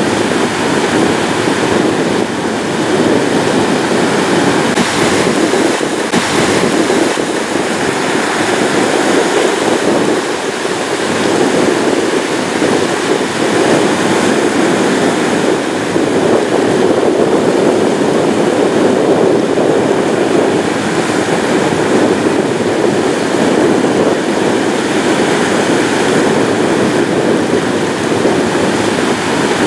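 Ocean surf: a continuous rush of waves that rises and eases slightly in level, with no distinct single crashes.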